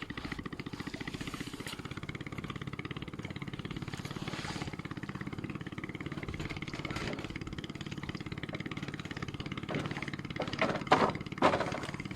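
A small engine running steadily with an even, fast pulsing beat. A few louder short sounds come near the end.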